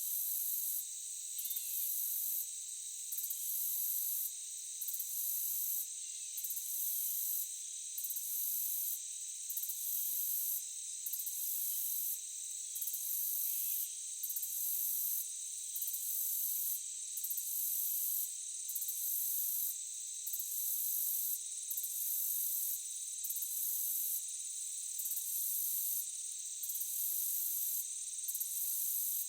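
Chorus of forest insects: a very high trill that pulses on and off about every one and a half seconds, over a steady high-pitched drone.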